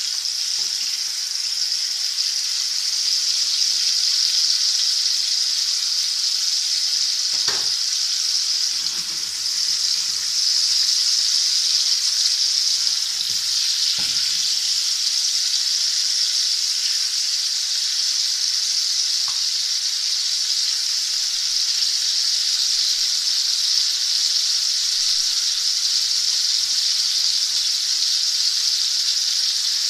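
Chicken fillets frying in hot oil in a non-stick pan, a steady high sizzle with a couple of faint knocks partway through.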